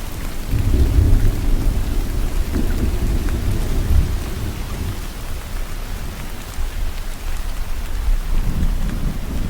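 Steady rain falling, with a low rolling rumble of thunder that swells about half a second in, eases after about five seconds and builds again near the end.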